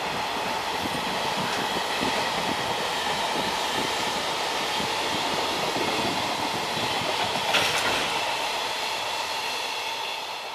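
Container wagons of a long electric-hauled freight train rolling past on the rails. The wheels rumble and clatter, under a steady high whine. A brief louder screech comes about seven and a half seconds in, and the sound drops away near the end as the last wagons pass.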